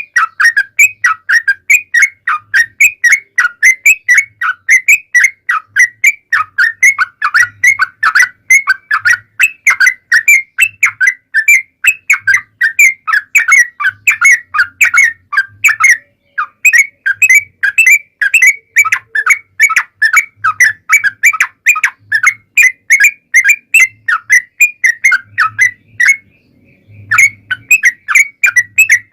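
Yellow-vented bulbul (trucukan) singing a long, fast run of short whistled notes, several a second, with a brief pause midway and a longer pause near the end.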